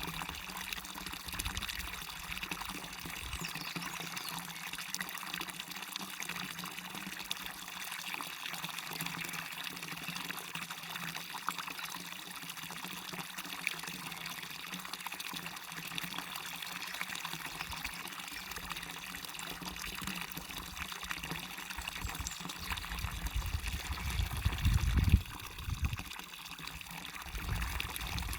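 Small waterfall pouring into a stream, a steady splashing rush of water. A brief low rumble comes near the end.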